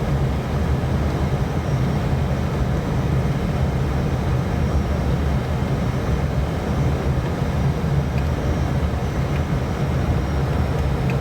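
Steady cockpit noise of an Airbus airliner on final approach: airflow and engine noise as an even, deep rumble with no distinct events.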